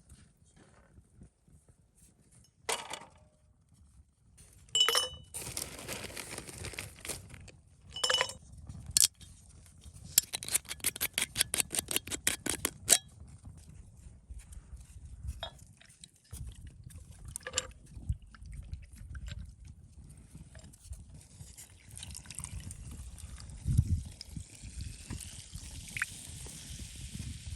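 Handling sounds of camp gear: scattered clinks and knocks, then a fast run of about eight clicks a second for some three seconds, and a soft hiss near the end.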